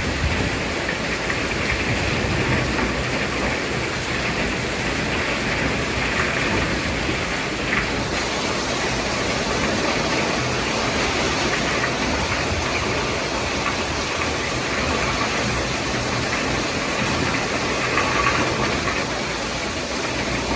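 Heavy rain falling in strong wind: a loud, steady, even hiss with no breaks.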